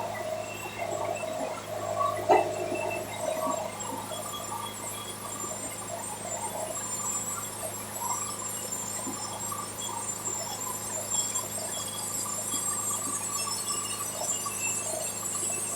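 Wood-Mizer LT70 band sawmill running on its diesel engine, a steady hum, with a brief knock about two seconds in.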